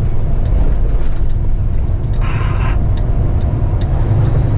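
Semi truck's engine and road noise heard from inside the cab while driving on the highway, a steady low drone. A short higher-pitched sound cuts in briefly a little over two seconds in.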